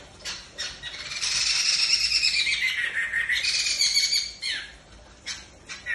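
A songbird singing: a few short chirps, then a loud, continuous warbling phrase of quick varied notes lasting about three and a half seconds, then short chirps again near the end.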